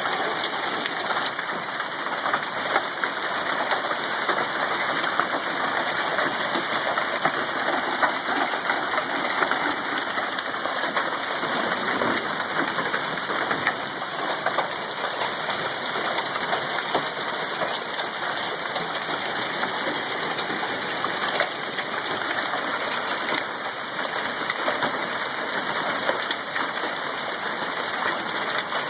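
Hail and heavy rain coming down hard: a dense, steady hiss full of quick fine ticks of hailstones striking.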